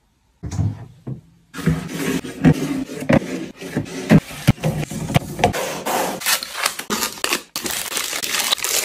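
Clattering, knocking and scraping of kitchen containers and packaging being handled and restocked, a quick run of sharp clicks and taps.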